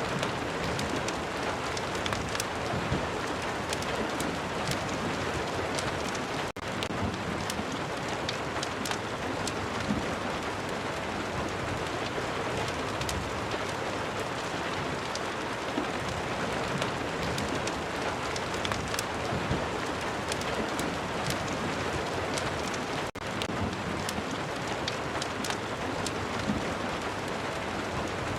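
Steady rain falling, mixed with a crackling fireplace's sharp pops and snaps. The sound briefly drops out twice, for a split second each time.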